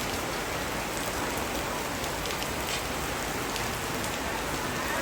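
Heavy rain falling steadily, an even hiss with scattered drop hits.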